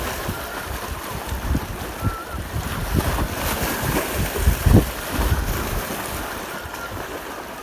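Strong, gusty wind buffeting the microphone in irregular low rumbles, with one strong gust a little under five seconds in, over a steady hiss of wind and sea.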